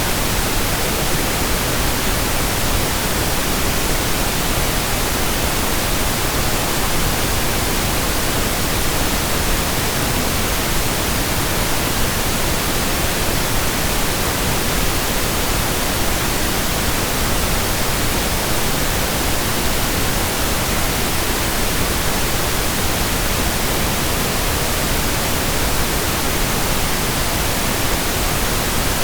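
Steady synthetic pink noise: an even, unchanging hiss spread across the whole range, with no other sound.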